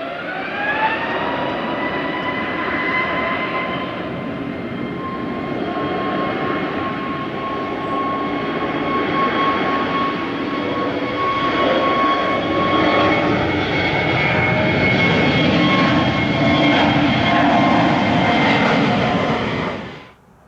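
Airbus A321neo jet engines spooling up to takeoff thrust, their whine rising in pitch over the first two seconds and then holding steady under a growing roar as the airliner takes off. The sound cuts off abruptly near the end.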